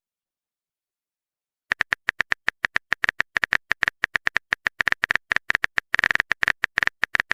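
Rapid run of short, crisp clicks, several a second at an uneven pace, starting about a second and a half in: a phone-keyboard typing sound effect.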